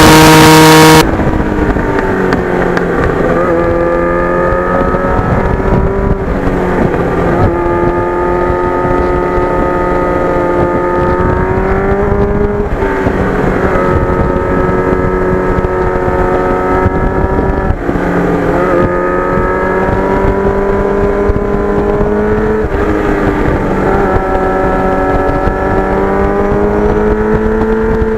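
Motorcycle engine, an old Yamaha FZR sport bike's inline-four, riding on the road: its pitch climbs and then drops back several times as it pulls through the gears, with wind rushing over the microphone. The first second holds a much louder steady sound that cuts off abruptly.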